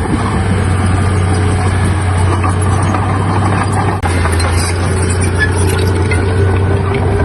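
Heavy diesel earthmoving machinery running steadily, a constant low engine hum with mechanical noise over it.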